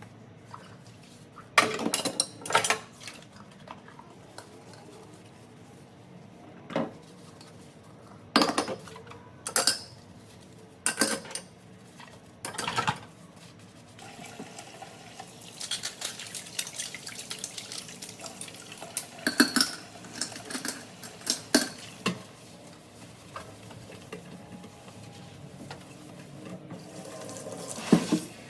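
Dishes and cutlery clattering, a series of sharp clinks and knocks, then water running from a tap for several seconds with more clinks mixed in, as in washing up at a kitchen sink.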